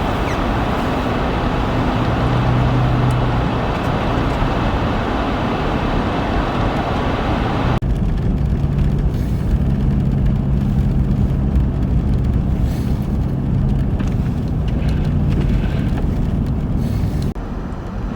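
Motor vehicle driving: steady road and wind noise with a low engine hum. About eight seconds in it changes abruptly to a quieter, lower hum.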